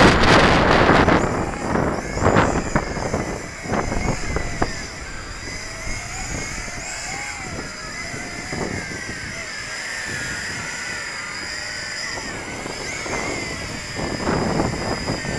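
Strong wind gusts buffeting the microphone, loudest in the first second or so and again near the end. In between, the motors of a Yi Zhan Tarantula X6 hexacopter whine, their pitch wavering up and down as the throttle works against the wind.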